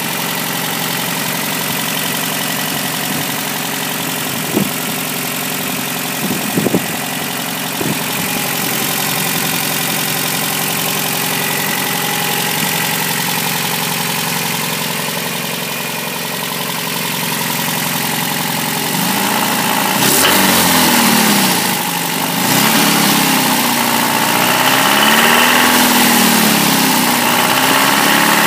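1989 Toyota pickup's 22RE four-cylinder engine idling steadily, then revved up and down several times from about two-thirds of the way in. It carries the knock the owner identifies as rod knock from bad bearings.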